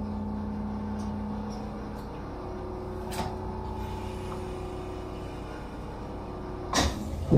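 An Echizen Railway electric railcar running along the line, heard from inside the passenger car: a steady low motor and running hum, with a further steady whine coming in about two seconds in. A few sharp clacks, likely the wheels going over rail joints, fall about three seconds in and near the end; the last one is the loudest.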